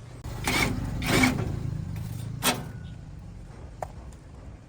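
Several knocks and clatters, two longer ones early and a sharp one about halfway through, as a broken part is handled over a low steady hum.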